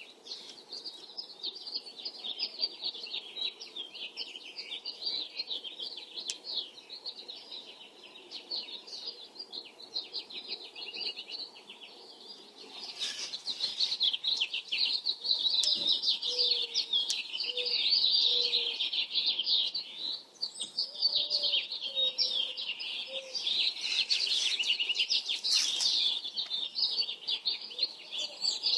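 Dawn chorus: many small birds chirping and singing in a dense, continuous twitter, growing louder about halfway through, with a few short low notes in groups of two or three in the second half.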